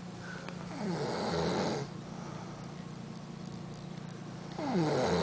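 A mother dog snoring loudly: two long, rasping snores, about a second in and again near the end.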